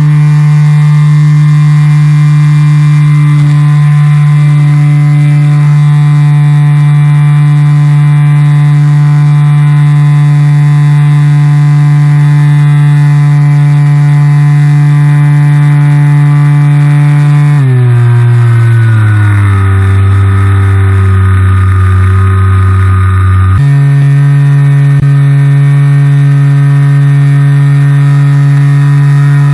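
Motor and propeller of a Skywalker RC model plane running at a steady high pitch, recorded loud and close. About eighteen seconds in the pitch sags and winds down for several seconds, then snaps suddenly back up to full speed near twenty-four seconds.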